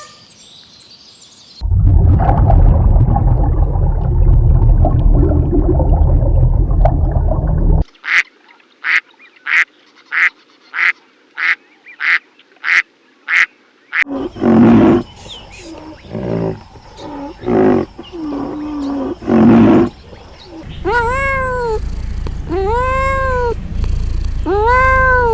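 A sequence of different animal sounds: a long deep rumbling call, then a run of short calls repeated about once a second, then several irregular calls, and finally repeated calls that rise and fall in pitch.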